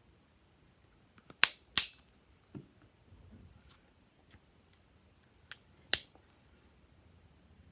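Glossy slime being worked by hand, giving a few sharp pops and clicks: two loud ones in quick succession about one and a half seconds in, a soft low squelch shortly after, and two more pops near the end.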